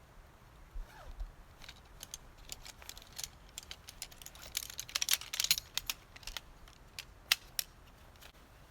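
A run of light, sharp, irregular clicks and crackles, bunching into a dense flurry about five seconds in, with a few single sharp ticks near the end.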